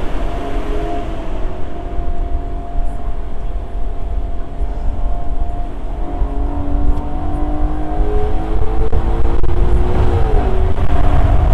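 Lexus LC500's 5.0-litre V8 running under a deep rumble, its note climbing slowly from about halfway through, dipping briefly just after ten seconds in and growing louder toward the end.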